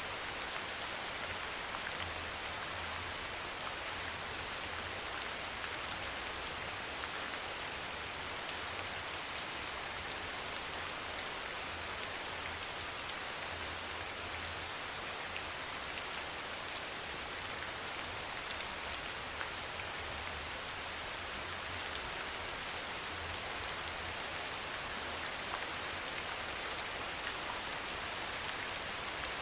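Steady rain falling in an even, dense patter that does not change. Underneath it, a faint low rumble comes and goes.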